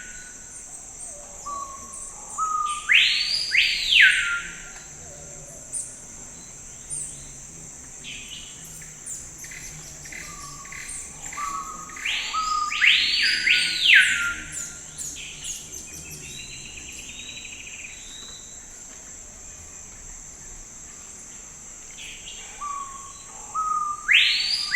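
Forest birdsong: a loud phrase of two or three whistled notes, each sweeping up and back down, repeats about every ten seconds. Fainter chirps come between the phrases, over a steady high-pitched drone.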